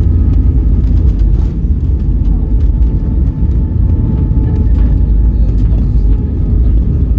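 Airbus A320 cabin noise on the ground: a steady low rumble of engines and wheels, with frequent small rattles and knocks from the cabin fittings.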